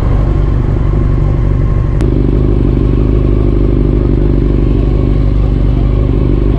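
Yamaha R6 sport bike's inline-four engine running as the bike is ridden, a steady even note. About two seconds in there is a click and the engine note shifts, where two ride recordings are joined.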